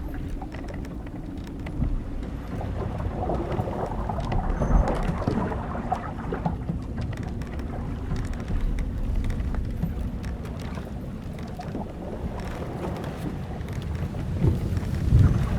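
Old wooden sailing ship at sea: a steady low rumble of wind and waves, with scattered creaks and knocks from the hull timbers and rigging.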